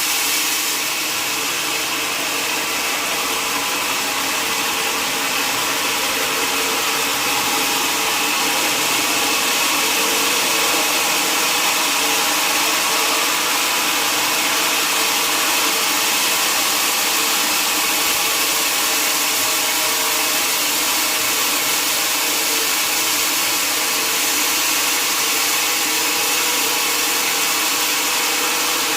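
Sawmill saw running steadily through a mahogany log, a continuous even whir with a faint hum under it.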